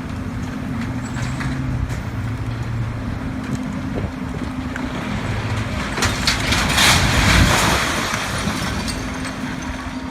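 A heavy truck's engine running steadily, with a loud rushing noise swelling up about six seconds in and fading by the eighth second.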